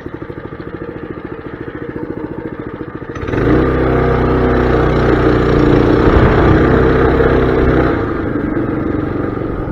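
Mini bike's small engine putters at low revs. About three seconds in it is revved up and held at high revs for several seconds, then eases off near the end.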